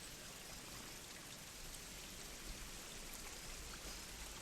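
Faint, steady outdoor background hiss with a few faint ticks, like light rain or running water.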